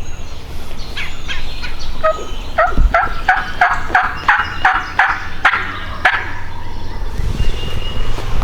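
Turkey yelping: a run of about a dozen evenly spaced notes, about three a second, over footsteps.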